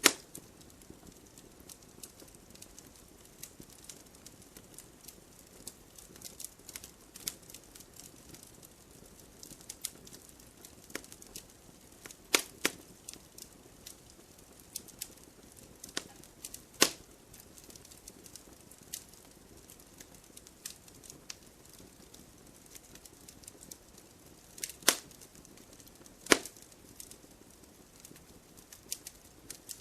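Campfire crackling: many small snaps over a soft low rush, with about four louder pops.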